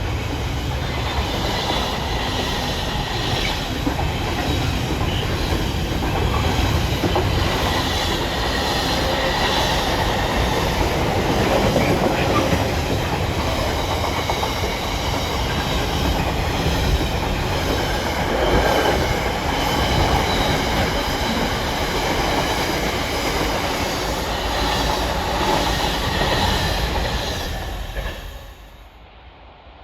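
Train passing close by: a steady rumble of wheels on the rails with a faint high wheel squeal over it. The sound drops away sharply near the end.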